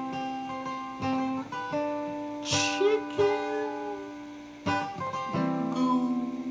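Acoustic guitar strummed in a song intro: chords struck about once a second and left to ring, with a short hiss about two and a half seconds in.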